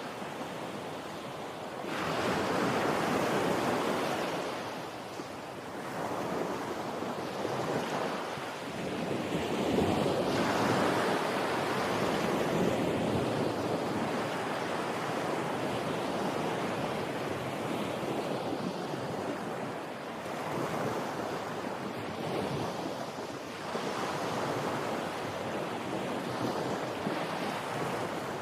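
Sea waves washing onto the shore, with the surf swelling louder and easing off again every few seconds.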